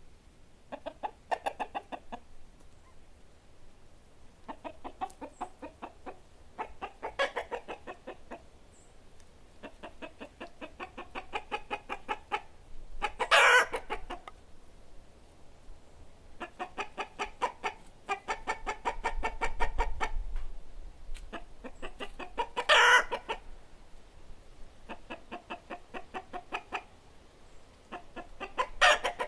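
Domestic chickens clucking in repeated runs of rapid clucks, with three louder, sharper calls spread through the stretch.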